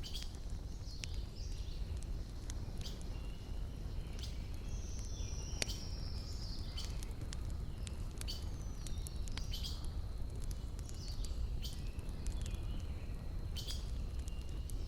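Wood fire crackling, with irregular sharp pops and snaps from the burning logs over a low steady rumble. Small birds chirp and whistle, including one long falling whistle about five seconds in.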